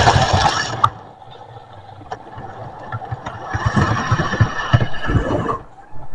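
Model train running along the track: a rumble of motor and wheels with clattering clicks. It drops away about a second in, swells again and cuts off suddenly near the end.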